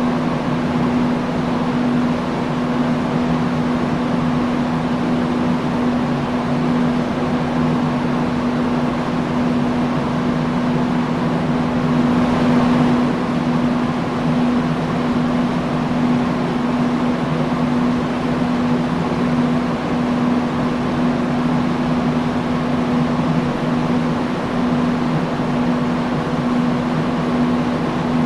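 Industrial fan running steadily: a constant low hum under an even rush of air, with a slight swell in the rushing about halfway through.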